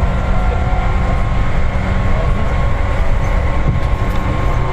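Steady running noise heard inside the passenger car of a resistance-controlled Seibu 4000 series electric train moving along the line: a continuous low rumble of wheels on rails and running gear.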